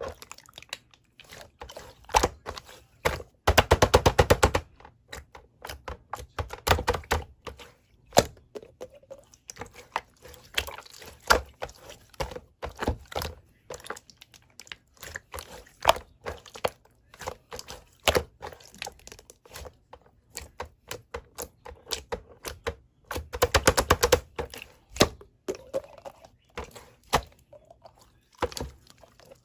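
Slime being pressed, squished and folded by hand, making irregular sharp clicks and pops, with two bursts of rapid crackling, about four seconds in and again near the end.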